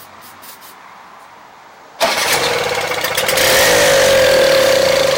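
Toro Snow Commander snowblower engine, quiet for about two seconds, then firing up suddenly on a shot of ether and running loud, its pitch rising and then holding steady. Starting on ether marks the fault as fuel delivery, most likely the carburetor.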